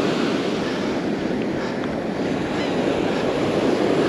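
Gulf surf washing steadily onto the beach, with wind rumbling on the microphone.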